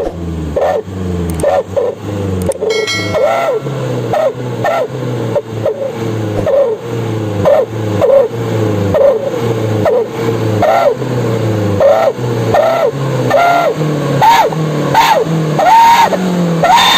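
Suzuki Carry petrol engine revved in a long run of quick throttle blips through a Gradius25 'srigala' wolf-howl exhaust, each blip giving a short whistle that rises and falls like a howl.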